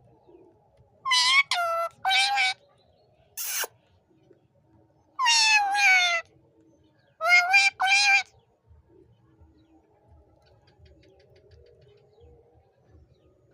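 Pet parrot calling in loud, drawn-out cries, mostly in two parts with the pitch falling, about five times, with one short harsh screech about three and a half seconds in.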